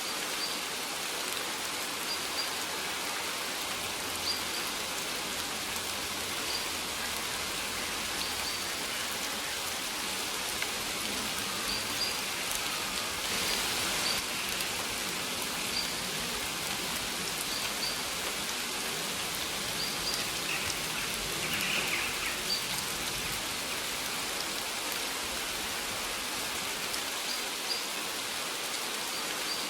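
Steady rain falling in an even hiss, with a short high chirp repeating about every two seconds.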